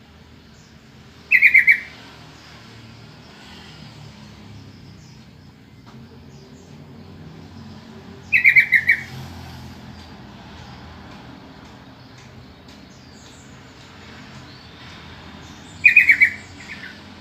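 Yellow-vented bulbul call: three short, loud phrases of rapid notes, about seven seconds apart, over a low steady hum.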